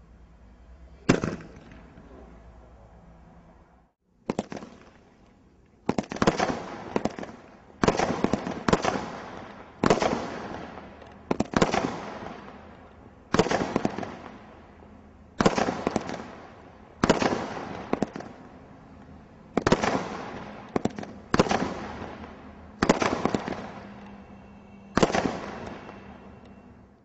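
Fireworks going off in a display: a run of loud, sharp bangs, each with a long fading echo. They come every second or two, often in quick doubles and triples.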